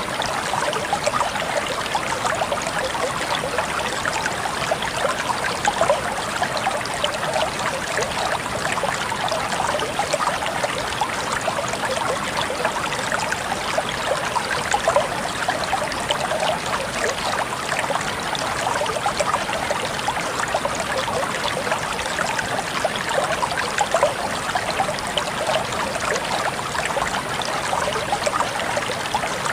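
Water flowing steadily in a small stream, an even splashing and trickling that stays level throughout.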